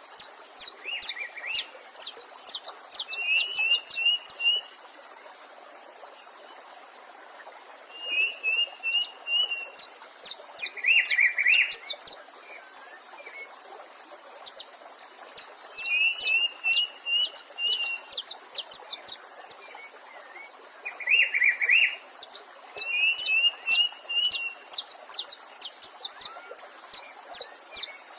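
Songbird song: phrases of rapid, high, sharp notes mixed with short rolling trills and a buzzy note, repeated about every five seconds, over the faint steady rush of a stream.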